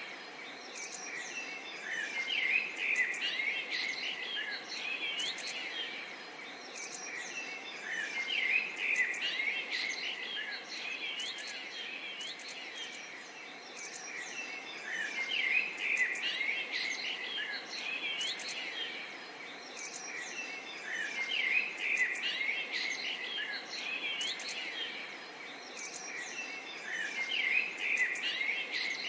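Many small songbirds chirping and twittering together over a steady low background hiss, the chirping swelling and easing about every six seconds.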